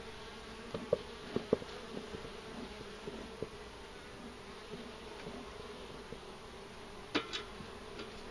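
Italian honeybees buzzing steadily in a mass around an opened Langstroth hive, stirred up by the inspection. A few sharp clicks and knocks come through about a second in and again near the end.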